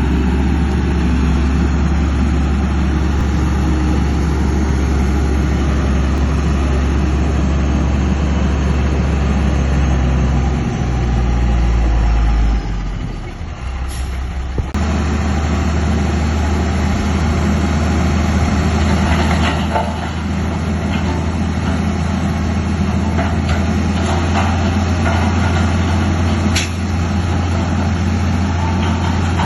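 Heavy diesel engines of earthmoving machinery, a bulldozer and dump trucks, running steadily, with a brief drop in level about halfway after which the engine note changes.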